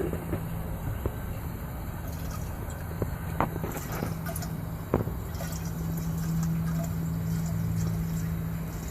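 Diesel fuel draining through a hose from a container into a heating-oil tank, trickling and dripping, over a steady low hum. Two sharp knocks about three and a half and five seconds in.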